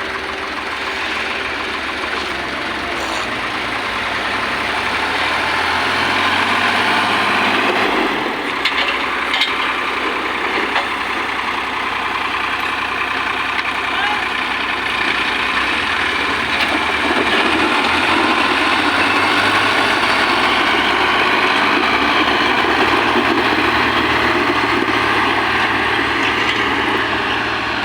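Heavy diesel machinery running steadily, with a few knocks in the middle.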